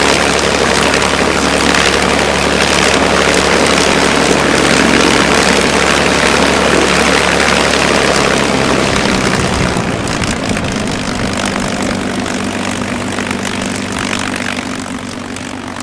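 Supercharged Packard V-1650 Merlin V-12 of a P-51D Mustang running loudly with its propeller turning. About nine seconds in, the engine's low drone changes pitch, and the level eases slightly toward the end.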